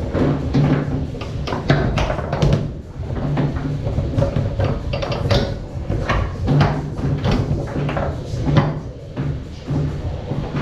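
Foosball being played on a Tornado table: many sharp, irregular knocks and cracks as the ball is struck by the plastic men and hits the walls and goal, with the rods clacking.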